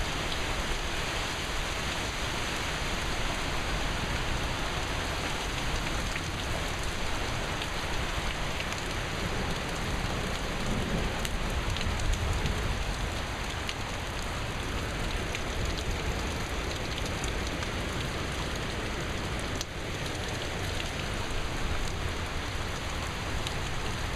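Rain falling steadily in a thunderstorm.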